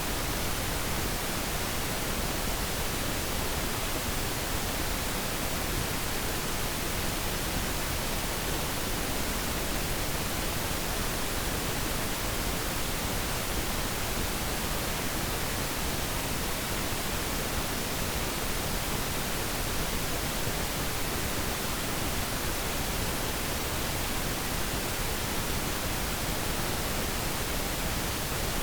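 Steady pink noise: an even, unchanging hiss with less treble than white noise.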